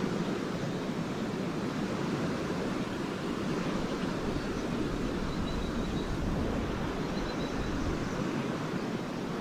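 Lake waves washing steadily onto the shore in an even, continuous wash, with some wind on the microphone. About halfway through come faint, brief high twitters from swallows.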